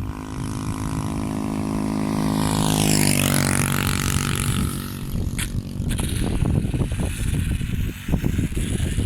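A road vehicle drives past, its engine note growing louder, then dropping in pitch about three seconds in as it goes by. Gusty low rumbling follows.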